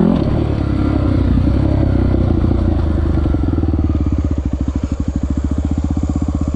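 Honda Tornado 250's single-cylinder four-stroke engine running, dropping off the throttle and settling into a slow, even putter at idle about four seconds in.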